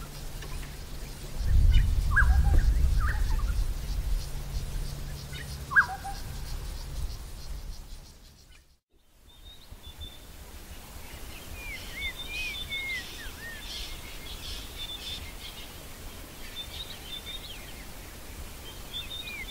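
A low rumble over a steady low hum during the first half, with a few short bird calls and a single sharp click. After a brief drop to silence midway, birds chirp with many short, sliding high notes.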